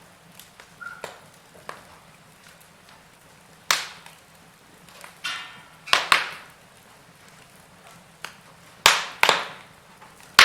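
Wood fire burning in a fireplace, with irregular crackles and several loud sharp pops of splitting logs over a soft steady hiss.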